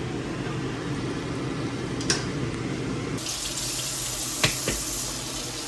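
Kitchen tap running into a sink while something is washed, the water turning brighter and hissier about three seconds in, with a few light knocks against the sink.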